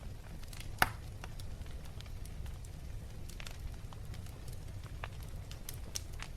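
Wood fire burning in a fireplace: a steady low rumble of the flames with scattered crackles and snaps, one loud pop a little under a second in.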